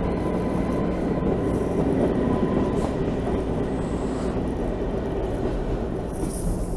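Narrow-gauge passenger train heard from an open coach window while running: a steady rumble of wheels on the rails.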